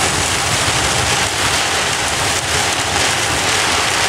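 Heavy rain falling steadily on a car's roof and windshield, heard from inside the moving car, with the rumble of tyres on the wet road beneath.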